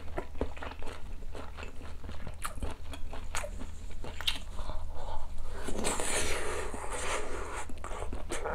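Close-miked eating of sundae hot pot: biting and chewing a mouthful, with many quick wet clicks. About six seconds in comes a longer airy rush lasting a second or two.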